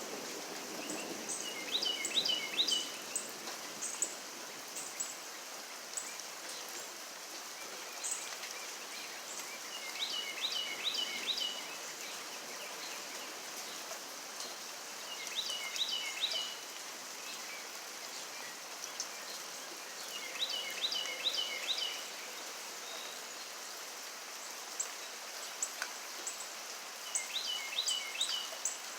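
Steady rain hiss, with a bird repeating a short phrase of four or five quick high notes about every five to six seconds.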